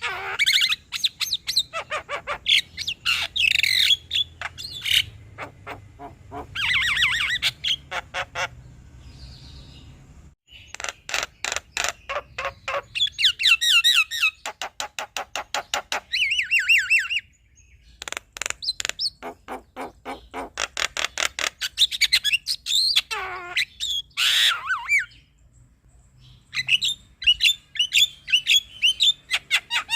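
Male Javan myna (jalak kebo) singing: bursts of rapid clicking chatter mixed with squawks and whistled sweeping notes, broken by short pauses.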